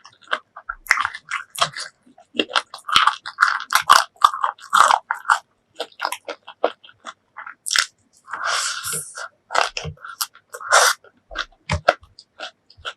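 Close-miked eating sounds: a quick run of crunchy bites and wet chewing of food, with a longer, softer squelch about eight seconds in.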